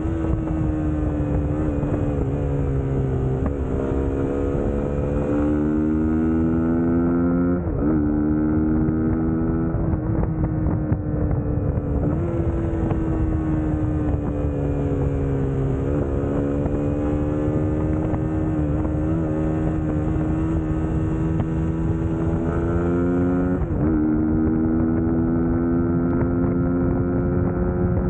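Suzuki GSX-S150's single-cylinder engine running while the motorcycle is ridden. Its pitch climbs and falls with the throttle, with sudden jumps in pitch at gear changes about five times.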